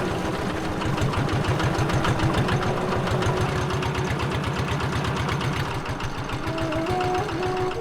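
A small river boat's engine running steadily with a rapid, even knocking beat. Faint musical tones come in near the end.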